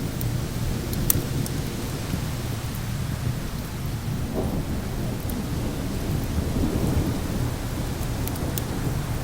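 Continuous low rumble of thunder and wind, with a few sharp pops and crackles from a wood fire, one about a second in and a cluster near the end.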